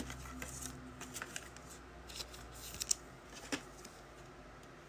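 Sports trading cards and pack wrappers being handled: faint scattered clicks and rustles, with sharper ticks around three seconds in.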